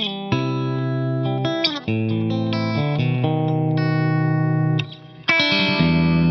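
Electric guitar, a Fender Stratocaster, played through a Walrus Audio Deep Six V3 compressor pedal into a 1974 Marshall JMP 100-watt Super Lead amp. Chords are struck and left to ring out, with a short break about five seconds in before a fresh chord.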